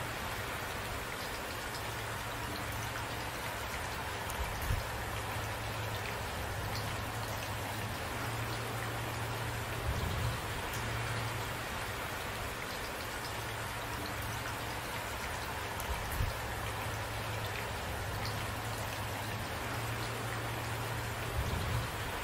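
Steady rain falling, an even hiss, with four brief low thumps spread through it.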